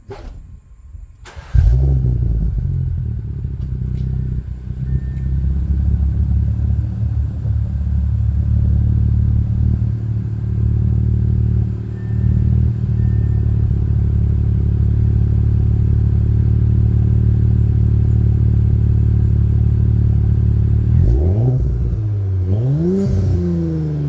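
Warm start of a 2018 Audi S4's turbocharged 3.0-litre V6 through an MBRP cat-back exhaust. It fires with a loud flare about a second and a half in, then idles steadily. Near the end it is revved several times, the pitch rising and falling with each blip.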